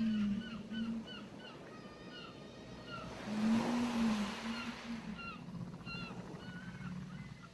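A wave washes up the shore about three seconds in over a steady surf background. Birds chirp in short, repeated calls throughout. Low whale calls rise and fall near the start and again about three seconds in.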